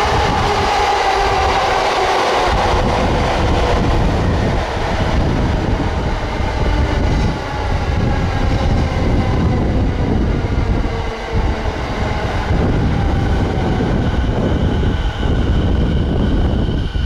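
Electric train running through the station at close range: a loud, steady rumble of wheels on rail, with a falling motor whine at the start.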